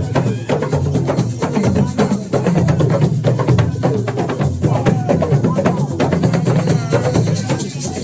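Assiko percussion music: drums and sharp wood-block-like strokes playing a fast, steady rhythm, with voices over it.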